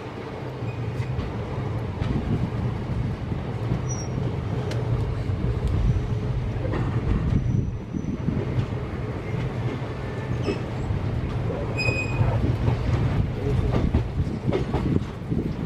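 Diesel-hauled passenger train running, heard from on board: a steady low rumble with scattered clicks of the wheels over rail joints. A brief high tone sounds about twelve seconds in.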